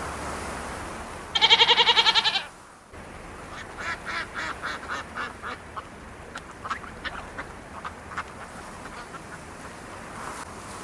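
Animal calls: a loud, rapid pulsed call lasting about a second, then a long run of short, irregular, fainter calls.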